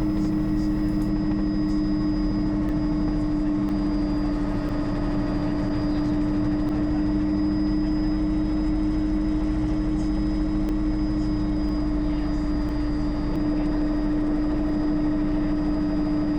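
Bell 206 JetRanger helicopter in flight, heard from inside the cabin: a steady, unchanging drone of rotor and turbine, with a strong hum and a thin high whine.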